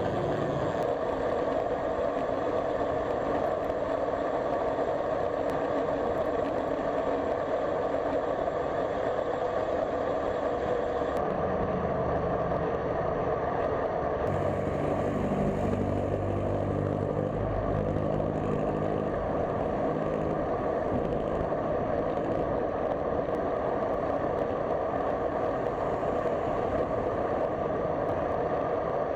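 Road traffic heard from a moving bicycle: steady road and wind noise, with a larger vehicle's engine passing between about twelve and twenty seconds in.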